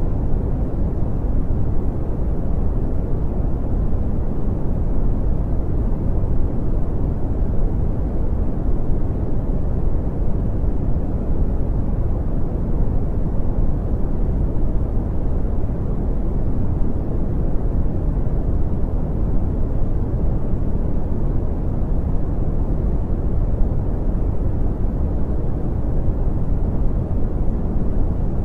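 Brown noise: a steady, even rumbling hiss with most of its energy low and little above a few hundred hertz, unchanging throughout.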